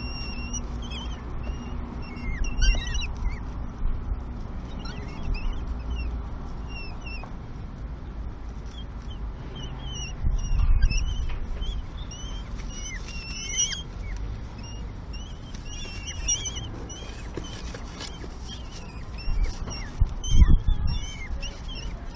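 Common kestrel chicks calling over and over with short, high, wavering squeaks, the begging calls of nestlings being fed by the parent. Underneath is a low rumble, with a few louder low thumps about halfway through and near the end.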